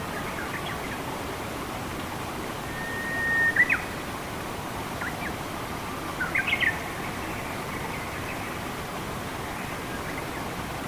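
Steady rush of running water with birds calling over it: a held whistle that swells about three seconds in and ends in a few sharp notes, a couple of short chirps, then a quick burst of chirps around six seconds.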